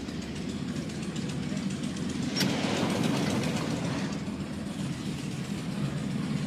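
A vehicle's engine rumbling steadily close by, with a short sharp sound about two and a half seconds in.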